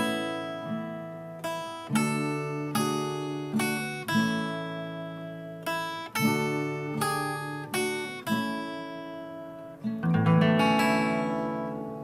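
Acoustic guitar strumming chords in a slow, even pattern as the instrumental close of a song, ending with a last strummed chord about ten seconds in that is left to ring out.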